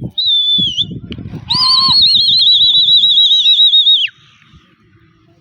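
A whistle blown twice: a short blast, then a long, loud trilling blast that warbles rapidly and drops away at the end. It is the kind of whistle pigeon fanciers blow at their flying birds.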